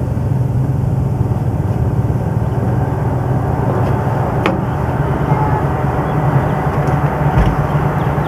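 Passenger train in motion: a steady, loud rumble of the running gear and carriage, with one sharp click about four and a half seconds in.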